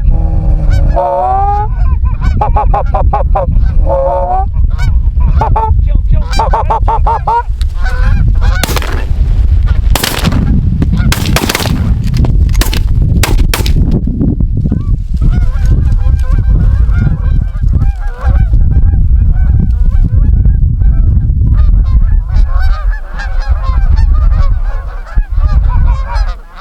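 Snow geese honking in a flock, broken by a rapid volley of about eight shotgun blasts from roughly nine to fourteen seconds in; afterwards the flock keeps up a dense clamour of calls. A heavy low rumble of wind on the microphone runs underneath.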